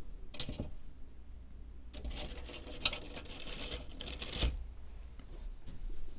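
Light scratching and rustling of small handwork on a miniature zen garden diorama: a brief scratch, then a longer scratchy stretch with a sharp click in the middle, ending in a small knock.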